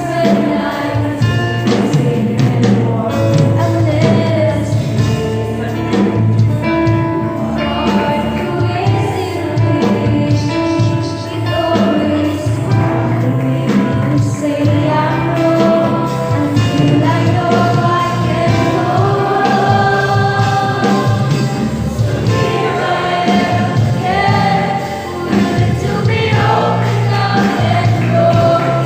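A youth choir singing a gospel song with instrumental accompaniment, held notes over a steady bass line.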